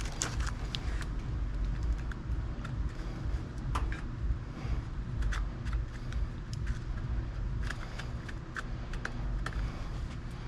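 Scattered light clicks and taps of handling, over a steady low rumble.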